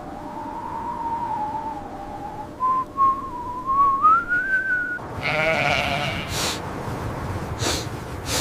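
A thin, wavering whistle-like tone slowly rises in pitch, then about five seconds in a sheep bleats with a quavering voice, followed by a couple of sharp clicks.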